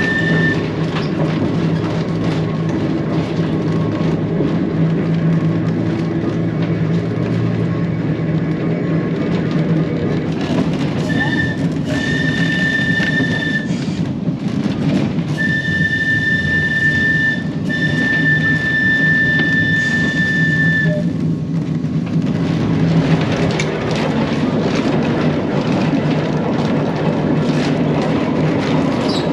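Manx Electric Railway tram heard from on board while running along the line: a steady rumble of wheels and motors, with a high, steady squeal that comes and goes, about ten seconds in and again for several seconds midway.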